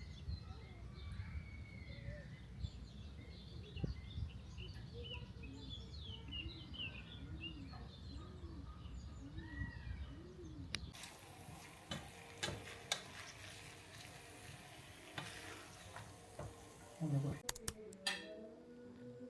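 Small birds chirping and singing over a low outdoor rumble. About eleven seconds in this gives way to a steady hiss with scattered clicks.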